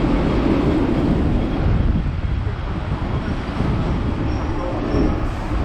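Hong Kong double-decker tram running along its street track, heard from on board: a steady, loud rumble of wheels on the rails and the running car.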